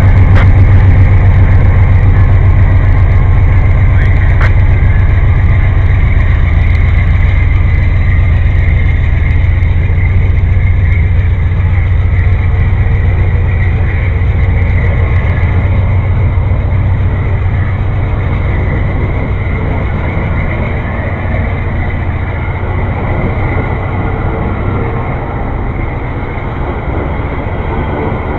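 A train passing at close range. The deep drone of its diesel locomotives is loudest at first and slowly fades while the rumble of the cars rolling over the rails carries on.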